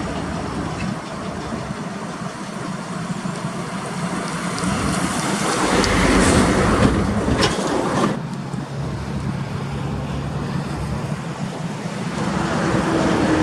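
Heavy diesel truck running, with engine hum under road and traffic noise. It grows louder about five seconds in and eases off again after about eight seconds, as a vehicle passes close.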